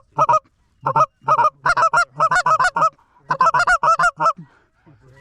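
Loud goose honks and clucks from one caller. A few separate notes lead into two quick runs of about five notes a second, ending shortly before the last second, as when calling geese in to decoys.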